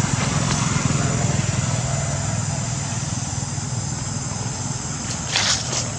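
An engine running steadily with a low, rapidly pulsing rumble, and a short sharp noise near the end.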